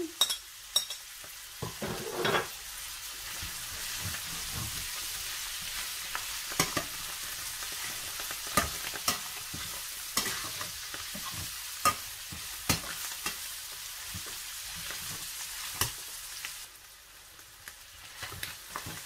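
Chicken pieces and green beans sizzling in a stainless steel frying pan as they are stirred with a slotted spatula, with scattered clicks and scrapes of the spatula against the pan. Near the end the sizzle drops to a quieter level.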